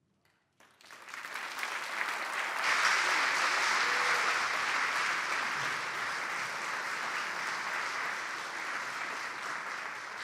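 Audience applauding at the end of a concert band piece, starting about a second in, swelling quickly and then slowly dying down.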